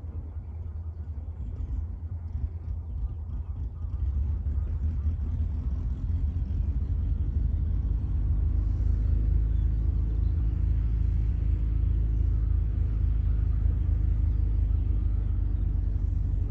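A light aircraft's engine running with a steady drone that grows louder partway through, over a low rumble.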